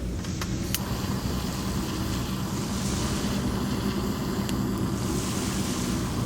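Waves washing on a beach, with wind rumbling on the microphone; the surf hiss swells twice, and a few sharp clicks come near the start and again about four and a half seconds in.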